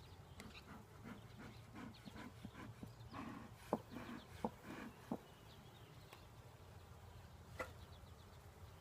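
Faint, steady hum of an open honeybee hive with soft rustling. There are three sharp clicks a little under a second apart from just under four seconds in, and one more near the end, as wooden hive frames are handled.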